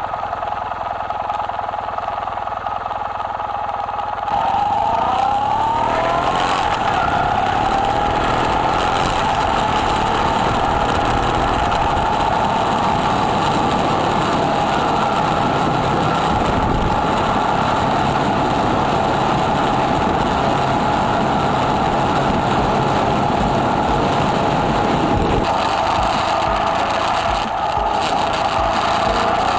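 Kawasaki W800's air-cooled parallel-twin engine breathing through an aftermarket muffler: it runs quietly for about four seconds, then gets suddenly louder with rising revs as the bike accelerates, and keeps running steadily under way, easing off briefly near the end.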